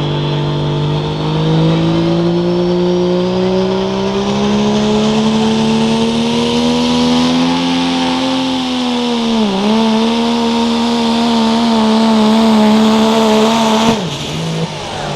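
Turbocharged diesel pickup engine pulling hard under sled load, its note climbing slowly, dipping sharply once about two-thirds of the way through, then holding. It cuts off suddenly near the end; the announcer puts the trouble in the turbocharger, at the boot between it and the intercooler.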